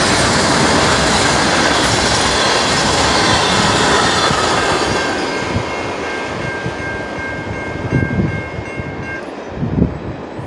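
Freight train cars rolling through a grade crossing, a loud rumble and rattle that fades about halfway through as the last car clears. Two steady high tones carry on for a few seconds after it, and there are a couple of low thumps near the end.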